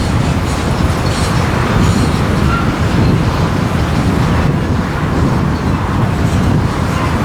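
Freight train rolling by on the rails, a loud steady rumble of the wagons' wheels with faint hints of wheel squeal.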